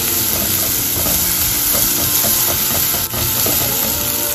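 Chopped onions and ginger-garlic paste frying in butter in a kadai, sizzling steadily while a wooden-handled spatula stirs them around the pan.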